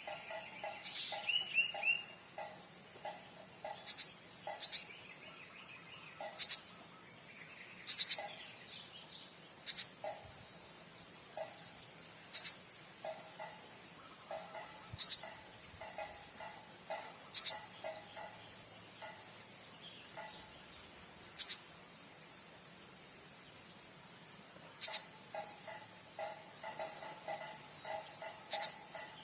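A steady, high-pitched drone of cicadas or crickets, cut every two to four seconds by short, shrill, very high calls typical of blue-crowned hanging parrots. Between them come runs of a softer, low, pulsing call.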